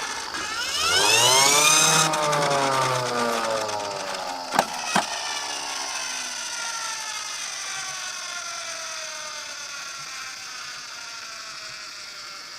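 Toy minicars running on a plastic slope: a whirring tone that rises over about a second and a half, then slowly falls and fades. Two sharp clicks come about five seconds in.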